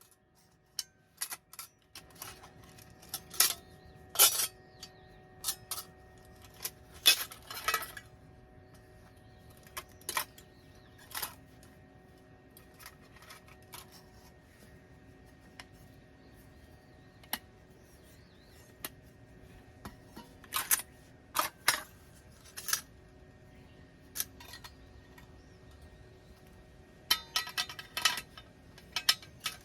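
Metal camp gear being handled: irregular clinks, clacks and a few sharp knocks, some in quick clusters.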